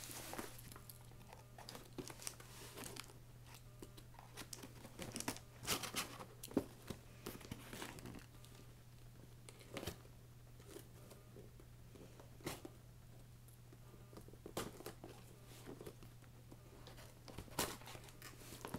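Package being unboxed by hand: scattered crinkling, rustling and tearing of packaging, with a steady low hum underneath.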